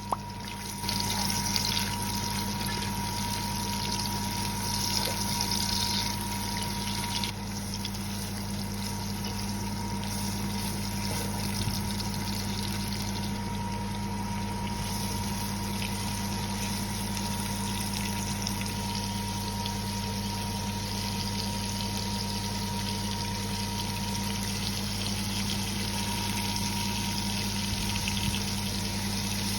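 Vegetables sizzling in a pan as they stir-fry: a steady hiss over a constant low hum.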